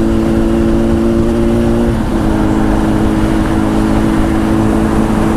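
Honda CBR1000's inline-four engine running through a Two Brothers aftermarket exhaust while riding, a steady engine note that steps down in pitch about two seconds in, over a low wind rumble.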